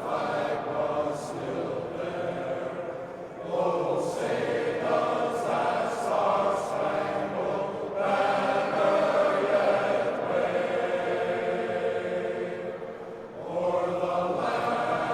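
Glee club choir singing in long held phrases, with new phrases starting about a third of the way in, about halfway, and near the end.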